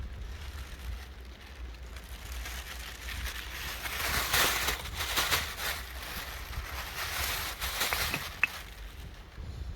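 Campfire burning, with a low steady rumble underneath. For about five seconds in the middle the crackling grows denser and louder, and it ends with one sharp pop.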